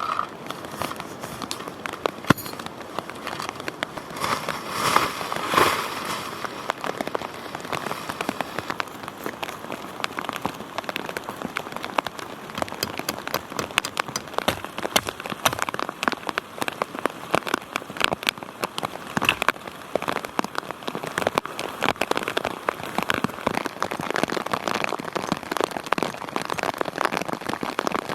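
Heavy rain falling, with a dense run of separate drops hitting close to the microphone. There is a brief louder rush about five seconds in.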